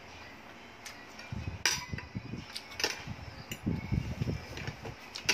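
Eating at a table: a few sharp clicks of cutlery against a plate, mixed with irregular low, close-up mouth and handling sounds, starting about a second in.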